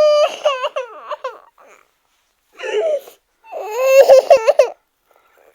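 A high-pitched voice crying out in three bursts: a long held cry breaking into quick up-and-down wavers, then a short cry, then a longer, louder one about three and a half seconds in.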